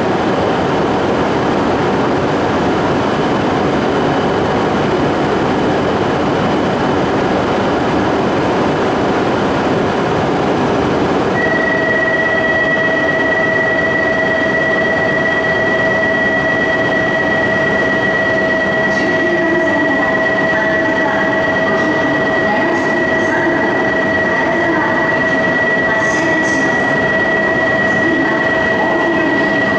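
Tohoku/Joetsu Shinkansen train moving at the platform, a loud steady rail rumble with some wheel squeal. About a third of the way in, a steady high tone starts and holds.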